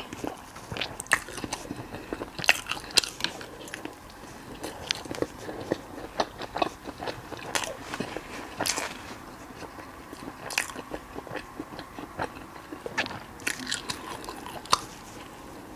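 Close-miked biting and chewing of crispy fried skewers, with many irregular crunches.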